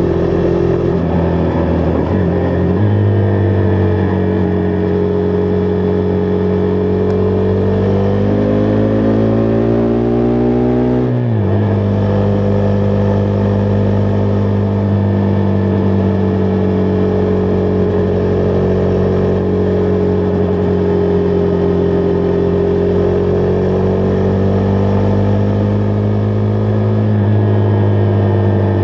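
Husqvarna Vitpilen 401's single-cylinder engine running under way: a steady engine note that rises as the bike accelerates about eight seconds in, drops sharply at a gear change about eleven seconds in, then holds a fairly steady cruising note.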